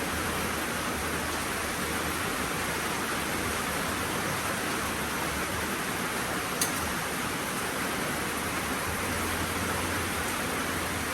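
Heavy rain falling steadily, an even hiss, with one short sharp click about two thirds of the way through.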